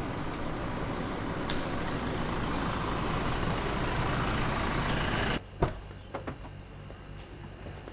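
Steady noise of a moving motor vehicle that cuts off abruptly about five seconds in, followed by a quieter stretch with a few sharp clicks or knocks.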